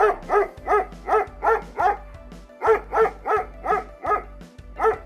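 A dog barking in quick runs of short, high barks, about three a second, with a break near the middle. Background music plays underneath.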